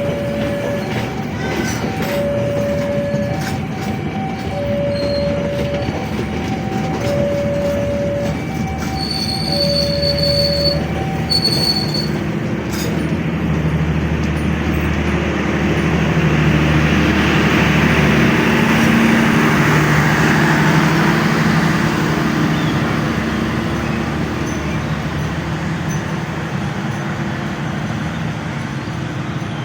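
Level-crossing warning alarm sounding in two alternating tones, about one a second, which stops about eleven seconds in. Then a train runs past over the crossing, its rumbling running noise and steady low hum swelling to a peak and slowly fading.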